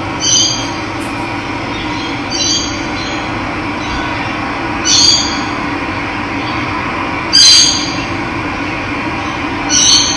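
Steady rush of running water, with a bird repeating a short, harsh call about every two and a half seconds, five times.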